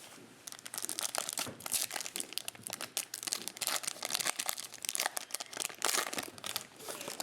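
Plastic cello-pack wrapper of trading cards being torn open and crinkled by hand: a dense, irregular run of crackles.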